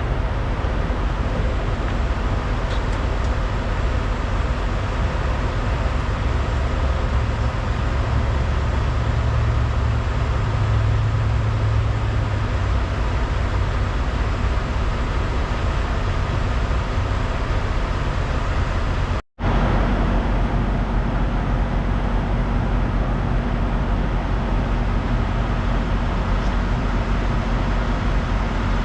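Steady engine and road noise of a truck on the move, with a strong low hum. The sound cuts out for an instant about two-thirds of the way through and comes back with a steadier hum, like an edit cut.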